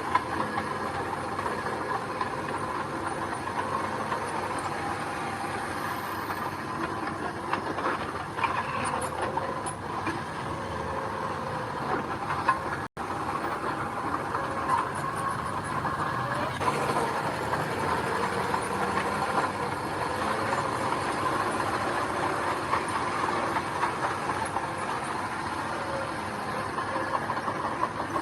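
Heavy diesel earthmoving machinery running steadily, with small irregular knocks; the sound drops out for an instant about halfway through.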